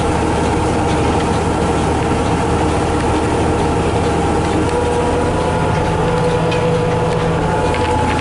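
Diesel engine of a farm harvest machine, a tractor or combine, running steadily under the cab. About halfway through, a steady higher whine comes in over the hum.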